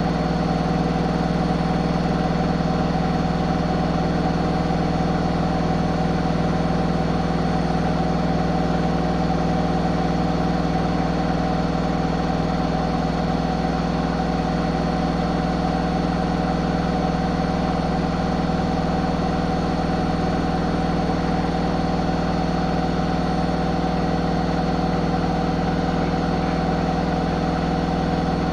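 Zanussi ZWH7148P washing machine running with a steady, even hum made of several fixed tones, holding constant throughout.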